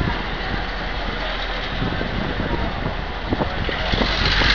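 Diesel-hauled passenger train running slowly along the station track: steady wheel-and-rail and engine noise with scattered knocks, swelling a little near the end.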